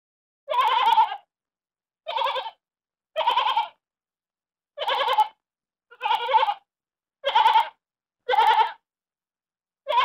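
Sheep bleating: eight separate wavering bleats, each about half a second long, roughly one every second and a bit, with dead silence between them.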